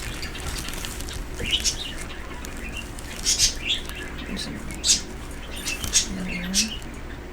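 Pet bird chirping in a string of short, high calls, several over a few seconds.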